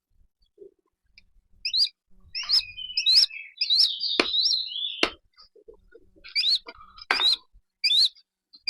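Small falcon (alap-alap) giving a string of shrill, sharp chirping calls, each a quick high pitch flick, about eight in all, in two bunches with a pause in between, while it is being fed.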